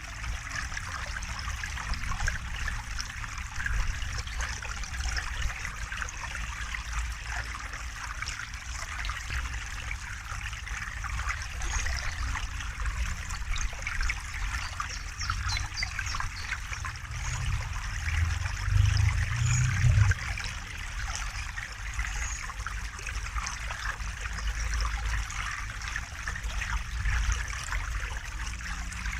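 A river or stream flowing and trickling steadily. A low rumble swells briefly about two-thirds of the way in.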